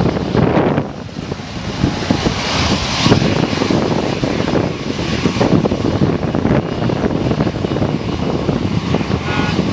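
Large airliner passing low overhead as it comes in to land, its engines a steady roar that dips briefly about a second in.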